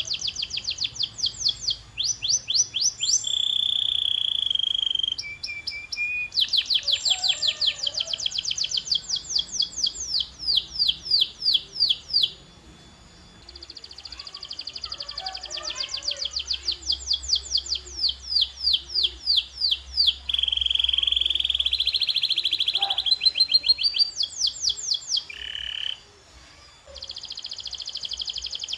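Domestic canary singing: rapid runs of repeated high chirping notes alternating with long held whistled notes. There are short pauses about twelve seconds in and again near the end.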